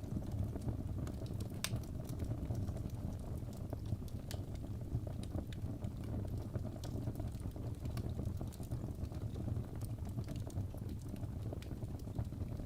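Wood fire burning in a fireplace: a steady low rumble of flames with frequent sharp crackles and pops from the burning logs, one louder pop a little under two seconds in.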